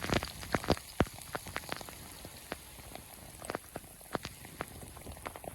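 Large raindrops striking a vehicle in sharp, irregular taps, coming thickly in the first second and then thinning out to scattered hits.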